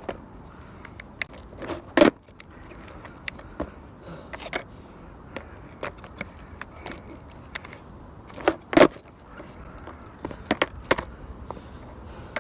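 Skateboard clacking and knocking on pavement: scattered sharp clicks over a low rumble, with two loud hits, about two seconds in and again near nine seconds.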